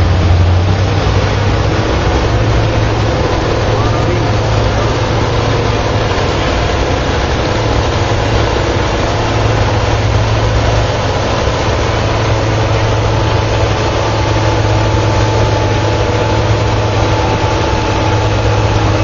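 Farm tractor engine running steadily at an even, low speed, without revving.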